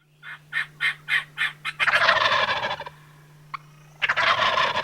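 Five quick, evenly spaced notes from a Boogie Man barred owl call, followed by wild turkeys gobbling twice, about two seconds in and again near the end: gobblers shock-gobbling in reply to the owl call. A low steady hum runs underneath.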